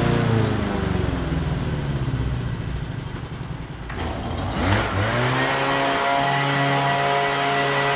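Honda petrol lawnmower engine running. Its pitch sags over the first few seconds, there is a brief clatter, then it climbs back up and holds at a steady speed.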